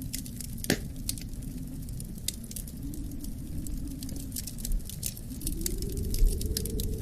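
Wood fire crackling and popping in a fireplace, with a sharp crack under a second in, over a low rumble of wind whose howl swells and rises in pitch about five seconds in.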